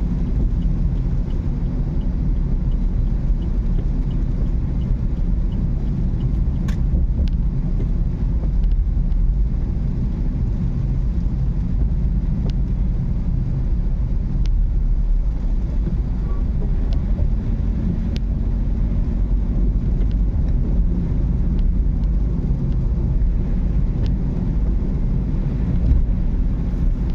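Moving car's steady low road and engine rumble, with faint regular ticking in the first few seconds and a few scattered sharp clicks.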